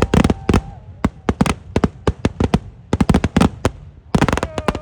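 Kerala temple-festival eeduvedi fireworks: loud, sharp firework bangs going off in rapid, irregular clusters of several a second, with short lulls between the volleys.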